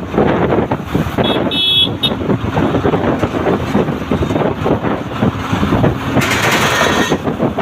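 A vehicle engine running amid street traffic, with a short horn toot about a second and a half in and a brief hiss about six seconds in.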